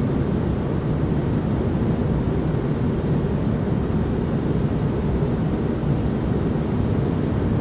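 Steady low rumble of aircraft engine noise, even in level with no change.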